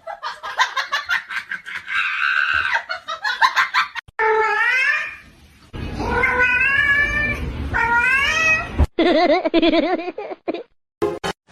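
Domestic cats meowing and yowling in a string of drawn-out, wavering calls. The calls stop abruptly several times, as at edits between clips.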